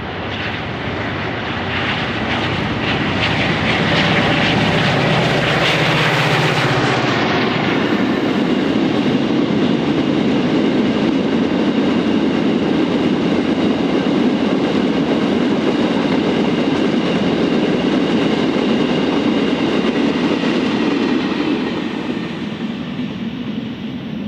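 Diesel freight locomotive working hard as it comes up and passes, with its engine note strongest in the first few seconds. The steady rumble of freight wagons rolling by follows and fades near the end.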